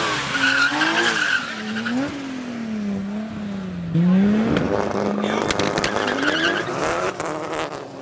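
Turbocharged Nissan 350Z V6 engine revving up and down at high rpm, with a high squeal over it. A run of sharp cracks comes in the last couple of seconds.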